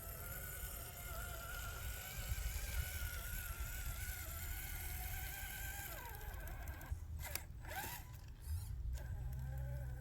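An RC crawler's small electric motor and gears whine steadily, then drop in pitch about six seconds in as it slows. A few sharp clicks and rattles follow, over a low rumble.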